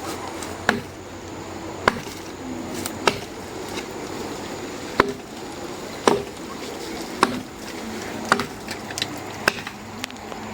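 Axe chopping firewood from a felled tree: sharp strikes into the wood about once a second, around ten in all.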